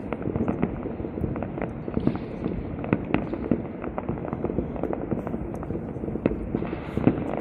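Aerial fireworks display: a dense, irregular run of shell bursts and crackles, several sharp bangs a second over a continuous rumble.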